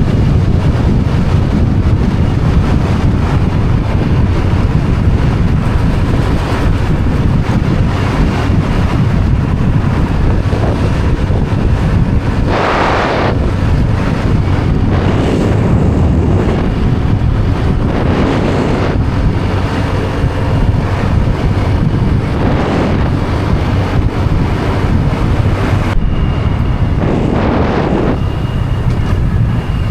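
Wind buffeting the microphone on a moving motorbike, over a steady low engine drone, with several stronger gusts along the way.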